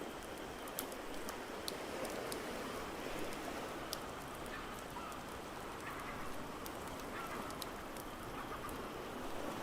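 Fireplace crackling with scattered sharp pops over a steady wash of waves and rain. A few faint calls come in around the middle.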